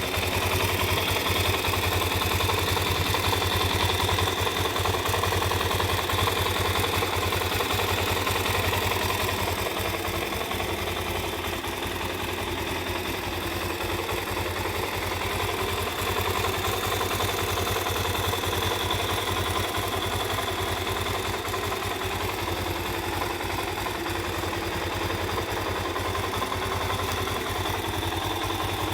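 Suzuki DR-Z400S's single-cylinder four-stroke engine idling steadily through its stock muffler, a little louder for the first several seconds before settling.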